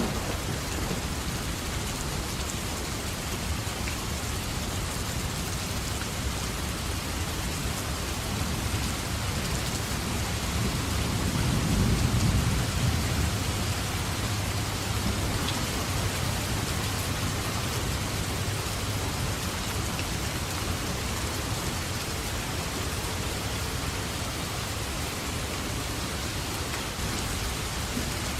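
Steady heavy rain falling on a forest, with a low rumble of thunder swelling and fading about halfway through.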